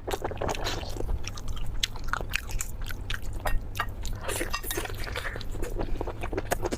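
Close-miked person chewing and biting food: a dense run of wet clicks, smacks and small crunches, irregular and unbroken.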